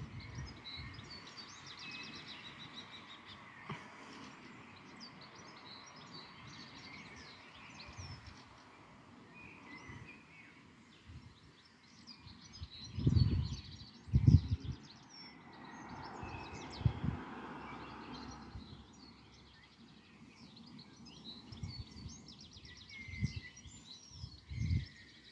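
Songbirds chirping and singing on and off, with several short low thumps in the second half, the two loudest close together about halfway through.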